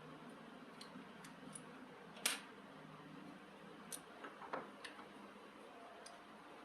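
A few sharp clicks and light taps of small hard parts being handled, the loudest about two seconds in and a quick cluster near the middle, over a faint steady hum.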